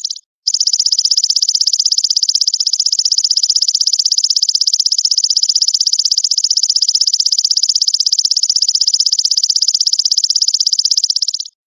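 Grasshopper ('belalang mas') stridulating in a high, rapid, evenly pulsed buzz. It is cut off by a brief gap of silence just after the start and again near the end, where the recording loops.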